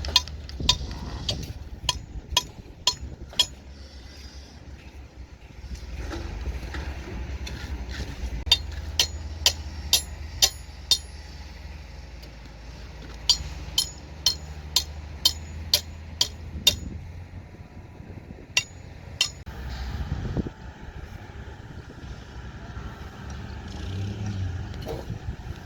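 Sharp metallic clinks of metal striking metal, in runs at about two a second with pauses between runs, each one ringing briefly. A low engine rumble runs underneath.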